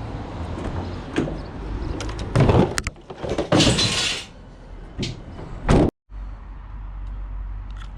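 Metal knocks and clatter in the back of a scrap van, with a scraping slide about halfway through and a sharp bang. The sound then drops out for a moment and a steady low rumble follows.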